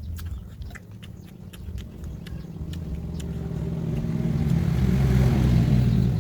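A motor vehicle engine, steadily getting louder as it approaches, then cut off abruptly at the end.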